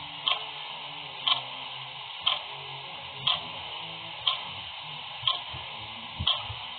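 Clock ticking once a second, seven sharp single ticks over a steady background hiss.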